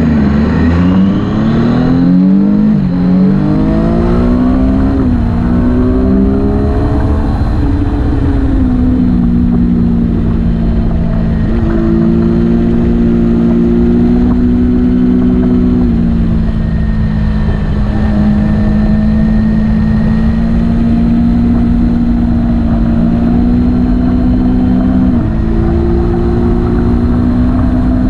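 Motorcycle engine running under way, its pitch rising and dropping several times in the first few seconds as it accelerates through the gears. It then holds a steady cruise with a few small shifts in pitch.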